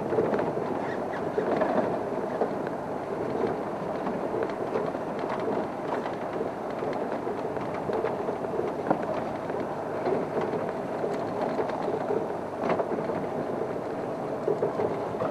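Game-drive vehicle driving slowly forward over a rough track, a steady engine-and-road rumble with a few brief knocks and rattles.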